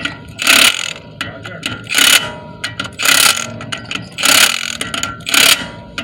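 Hand ratchet with a socket tightening a wheel's lug nuts: the pawl clatters in short bursts on each back-stroke, about five strokes roughly a second apart.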